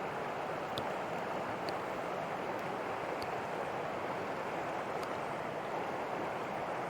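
Rushing water of a mountain trout stream running over rocks, a steady even rush.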